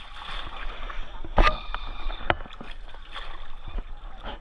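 Kayak or canoe paddling on a river, with water splashing and swishing around the boat. A sharp knock comes about a second and a half in, and a smaller one about a second later.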